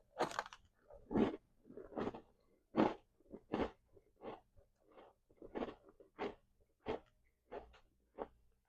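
A person chewing a crunchy chocolate chip cookie close to the microphone: a steady run of short crunches, about one every two-thirds of a second, growing fainter toward the end.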